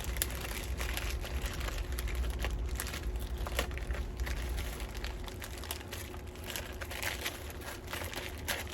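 Plastic bubble-bag packaging crinkling and rustling irregularly as rollerball bottles are pulled out of it by hand.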